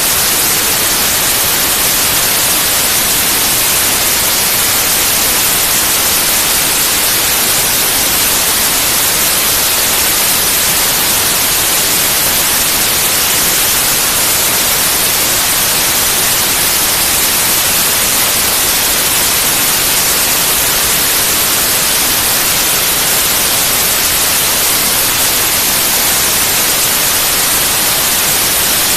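Steady white noise: an even, unchanging hiss spread across the whole range, brightest in the highs.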